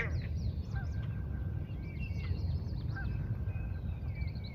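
Wild birds calling in a marsh, many short overlapping chirps and whistles, over a steady low rumble. A single sharp click, the loudest sound, comes right at the start.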